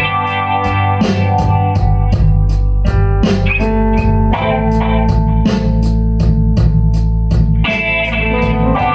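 Blues-rock band playing: electric guitar over bass and a drum kit keeping a steady beat of about three cymbal strokes a second.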